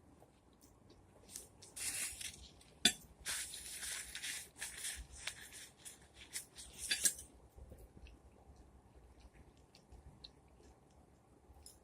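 Close-miked eating of baked chicken and collard greens: several seconds of crackly, wet noise with a sharp click about three seconds in, then faint small mouth clicks.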